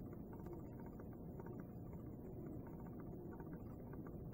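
Faint steady low background hiss: room tone with no distinct sound event.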